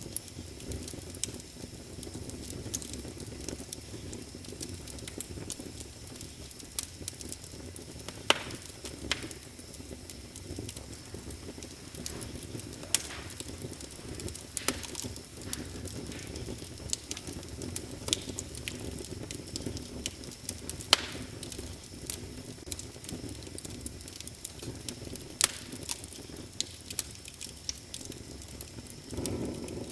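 Wood fire crackling in a fireplace: a steady low rumble of flames with frequent sharp crackles and a few louder pops.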